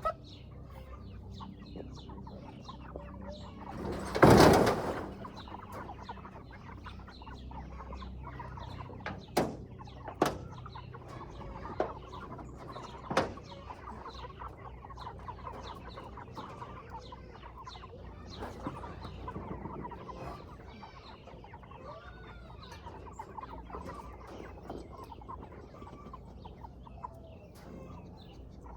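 A flock of Cornish cross meat chickens clucking and peeping continuously. A loud burst of noise comes about four seconds in, and a few sharp knocks follow a few seconds later.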